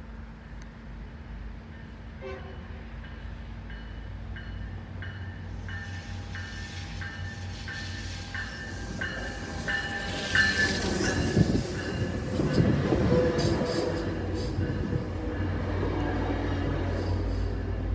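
Tri-Rail commuter train approaching and passing over a level crossing while the crossing bell rings about twice a second. The horn sounds as the train reaches the crossing, around the middle, and the train's noise grows loudest there. Its bi-level cars then rumble past close by.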